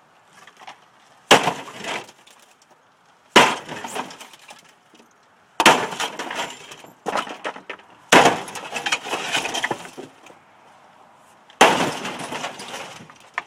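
Sledgehammer smashing into an old refrigerator five times, one blow every two to three seconds, each blow followed by a crunching clatter of breaking pieces.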